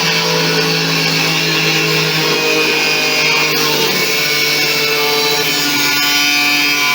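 Angle grinder with a cutting disc running steadily through the washing machine's sheet-steel cabinet, a continuous whine over a bright hiss whose pitch wavers a little as the disc is loaded.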